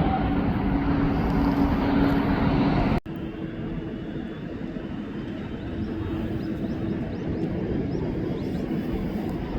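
Jet airliner engine noise with a steady hum, cut off about three seconds in: a landing Airbus A350-900. Then quieter, steady jet engine noise with its own hum from a Boeing 757-200 freighter, slowly growing louder.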